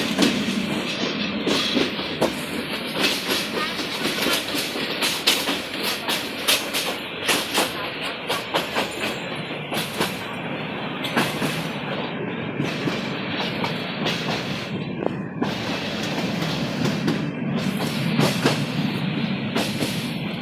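Rangpur Express passenger train running on the track, its wheels clacking over the rail joints in irregular sharp knocks over a steady rumble.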